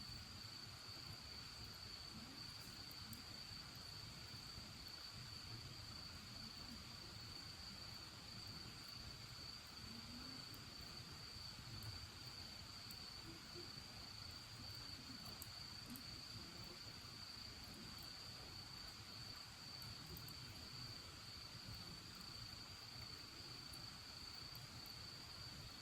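A cricket trilling steadily on one high note, with a few faint crackles from a wood bonfire.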